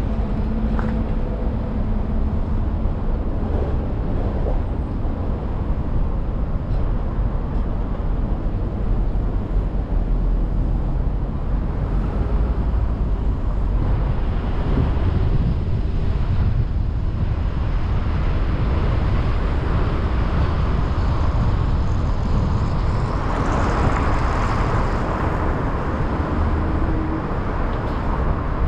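Steady road traffic noise: a low rumble of vehicles and tyres, with a louder rush swelling and fading late on.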